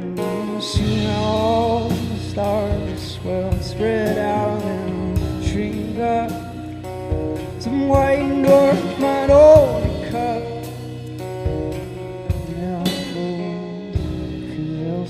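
Live band music with no words sung: guitar and baritone guitar over a drum kit, with steady drum and cymbal hits and a few sliding guitar notes.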